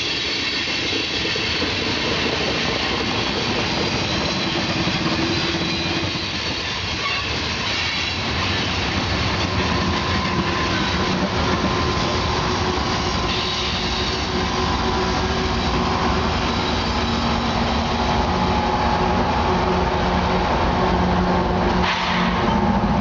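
Union Pacific freight cars rolling past on the rails, a steady rumble with wheel clickety-clack and thin high wheel squeal. Near the end a low engine drone grows in.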